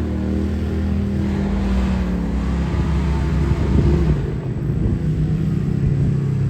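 Off-road vehicle engines running on a dirt hill climb, a steady engine drone whose note shifts about four seconds in.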